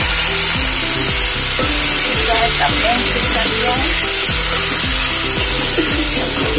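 Freshly ground green chutney sizzling in hot oil with a tempering of mustard seeds, dried red chillies and curry leaves, stirred with a metal spoon in an aluminium pot. A steady hiss of frying runs under the stirring.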